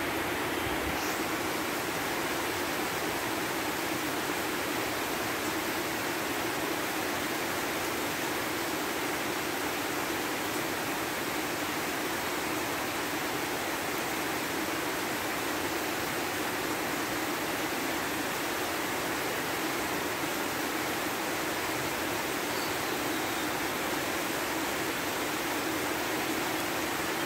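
Steady rain falling on wet pavement and foliage, an even unbroken hiss.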